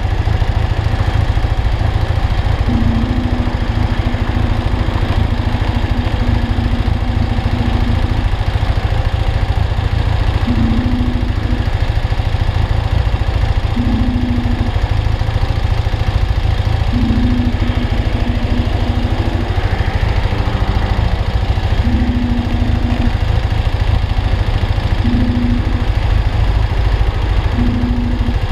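BMW R45's air-cooled flat-twin engine idling steadily with the motorcycle at a standstill.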